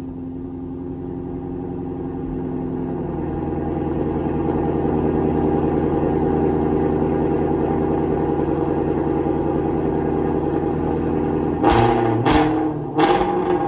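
Ford Shelby GT350R's 5.2-litre flat-plane-crank V8 idling steadily after a cold start, then three quick throttle blips near the end.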